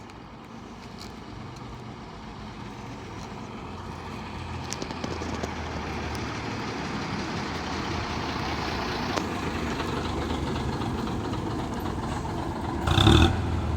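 A vintage bus's engine running, growing steadily louder as the bus draws near, with a short, louder burst of sound near the end.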